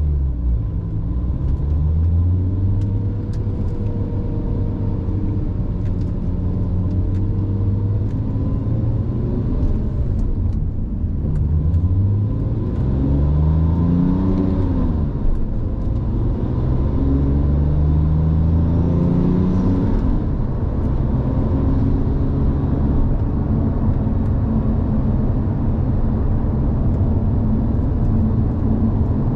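2007 Porsche 911 Turbo's twin-turbocharged flat-six engine under way on the road, its pitch climbing as it accelerates and dropping back at the shifts, twice in the middle stretch.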